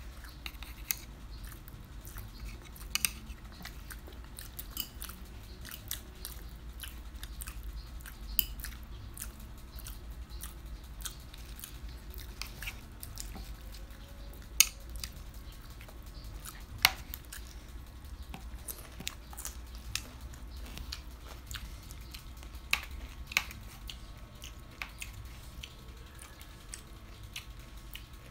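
Close-up eating sounds: chewing and biting into raw shrimp and fresh vegetables, with scattered sharp clicks of metal chopsticks against the food and plates. The loudest clicks come about 15 and 17 seconds in.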